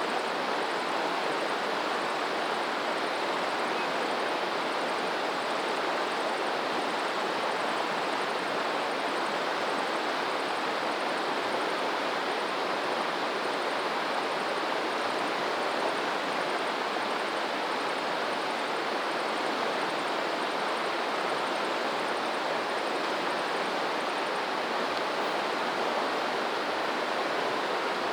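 Flowing water rushing steadily, an even hiss with no swells or breaks.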